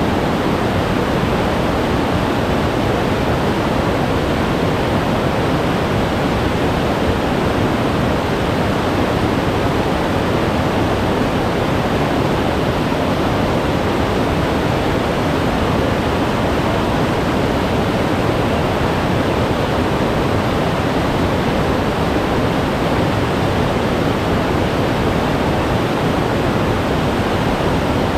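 Glacier-fed mountain stream rushing over rocks: a loud, steady roar of meltwater.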